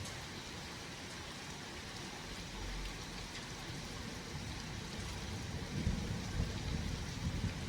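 Steady rain during a thunderstorm, with a low rumble of thunder building in the last couple of seconds.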